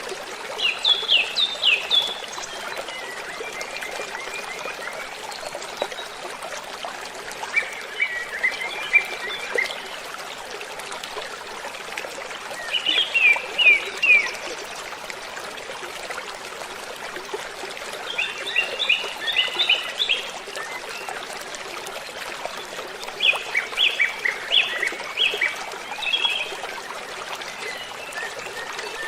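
Steady rush of falling water from a waterfall, with a songbird repeating a short burst of quick, high chirps about every five seconds.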